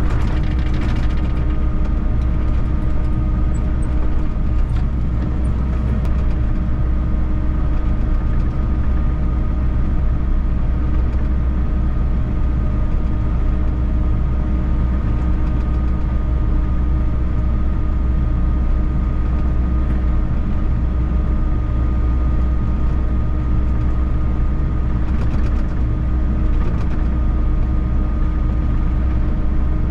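Volvo EC60E excavator's diesel engine running steadily under work, a constant hum with a fixed pitch. A few faint clicks and knocks come through in the first few seconds and again around 25 seconds in.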